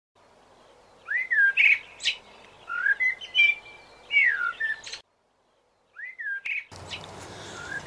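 Birds singing: short whistled notes that slur up and down, with quick chirps between, a note every second or so. The song cuts out for about a second midway, then resumes.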